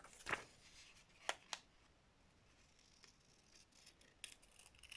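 Faint handling of paper and scissors, with a few sharp, light clicks, three of them within the first two seconds.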